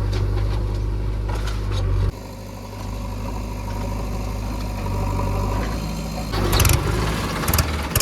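A heavy diesel engine running steadily. About two seconds in it drops to a lower, quieter note. From about six seconds it grows louder again, with a rough burst of rattling noise.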